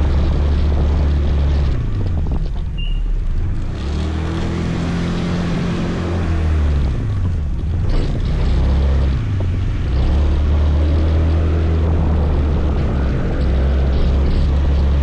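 Motor scooter engine running on the road, easing off twice and picking up speed again, under a steady rushing noise.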